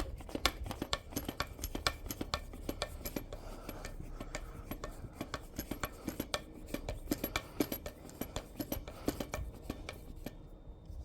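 Small metal parts clinking and rattling in quick, irregular clicks as they are handled.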